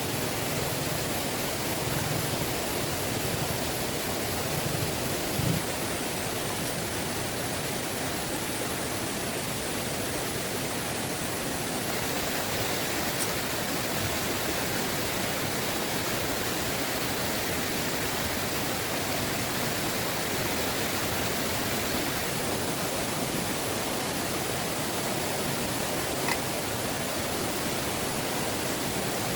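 Heavy rain falling steadily as an even, unbroken hiss, with a few faint brief taps along the way.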